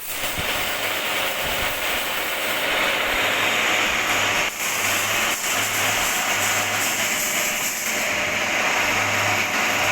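Metal lathe running: a steady whirring noise with a low hum that comes and goes.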